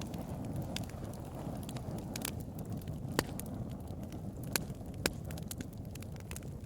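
Wood bonfire burning: a steady low rumble of flames with scattered sharp crackles and pops, a few louder pops about halfway through.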